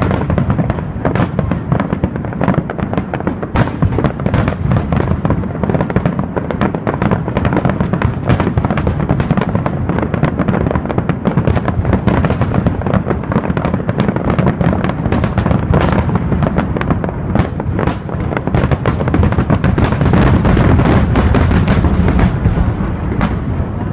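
Aerial fireworks: a dense, continuous barrage of overlapping booms and crackles, getting louder about three-quarters of the way through and easing off near the end.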